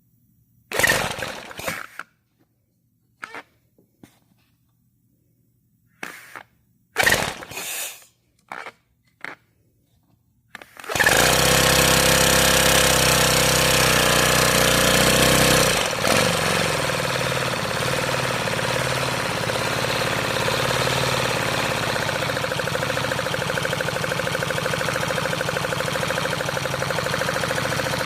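A few separate plastic clacks and knocks, then about eleven seconds in a 3D-printed single-cylinder engine model starts running with a steady, rapid mechanical clatter. The clatter is loudest for about five seconds, then settles slightly quieter.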